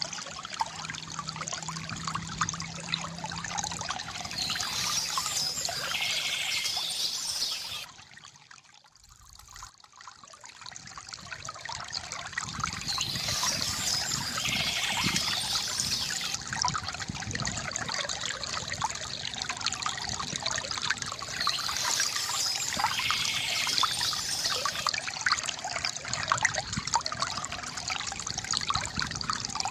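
Water trickling and splashing steadily from a bamboo fountain, with a short high bird chirp a few times. About eight seconds in the sound drops away almost to nothing, then swells back up over a few seconds.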